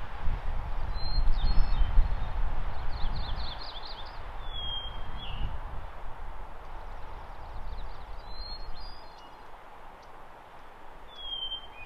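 A small songbird calling: a short, high whistled note that slurs slightly downward, repeated about every three and a half seconds. Under it is a low wind rumble on the microphone, loudest in the first half and dying away after about six seconds.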